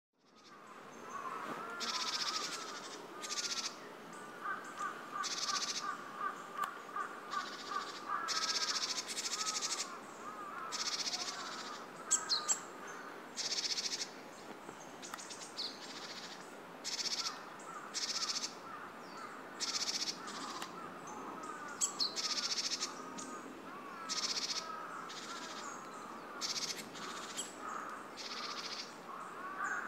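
Wild birds calling in woodland: short high-pitched calls repeating every second or so, over lower rapid chattering notes.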